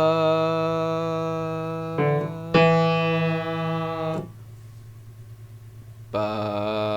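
Single sustained keyboard notes played one at a time: a held note, a short one, another held note, then a pause and a new note about six seconds in. A steady low tone runs underneath.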